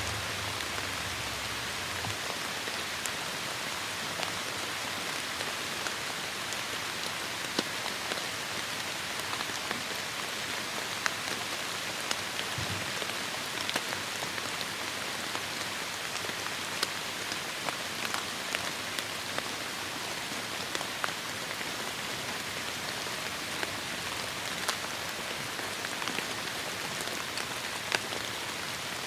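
Heavy rain falling steadily, a dense even hiss scattered with sharp individual drop hits. A brief low rumble sounds in the first two seconds.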